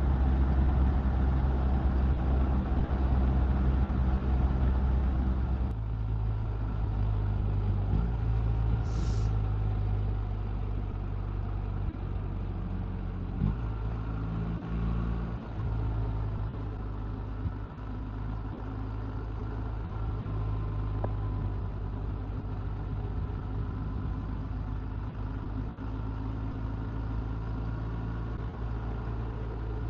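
Motorcycle engines running at road speed during a group ride, a steady low engine hum under road and wind noise. The engine note changes about six seconds in.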